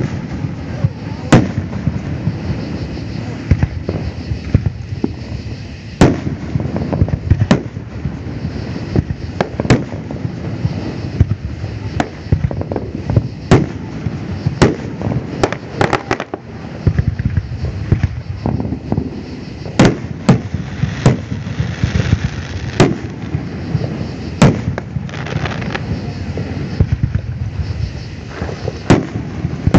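Aerial fireworks display: shells bursting in a steady series of sharp booms and cracks, some single and some in quick runs, the thickest runs about halfway through and again a little later.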